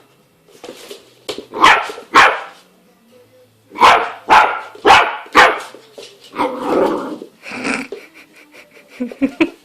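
Rottweiler puppy barking repeatedly, about eight sharp barks, some in quick succession.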